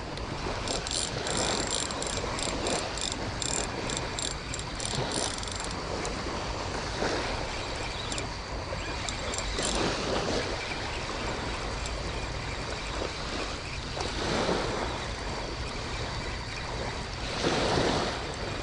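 Light surf washing on the beach with wind on the microphone, swelling in three broader washes near ten, fourteen and seventeen seconds in. For the first five or so seconds a light, rhythmic high ticking sounds over it, about three ticks a second.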